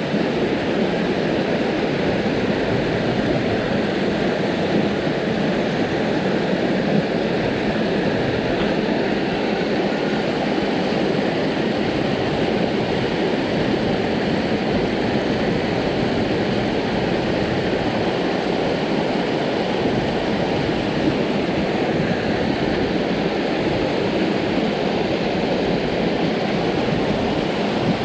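Headwater mountain stream rushing over rocks, a steady unbroken sound of running water.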